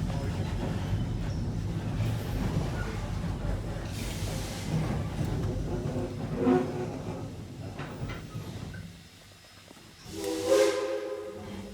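Steady low rumble of a steam-hauled passenger train rolling on the track, dying away about three quarters of the way through. Near the end comes a brief loud burst of steam hiss with a pitched tone in it.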